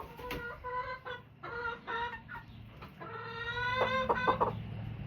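Chickens clucking and calling: a few short pitched clucks, then a longer drawn-out call about three seconds in, followed by a quick run of clucks.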